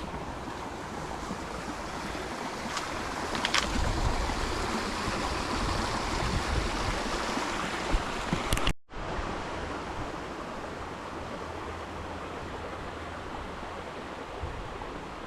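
Jungle creek water rushing steadily, with wind rumbling on the microphone at times. The sound cuts out for a moment about nine seconds in.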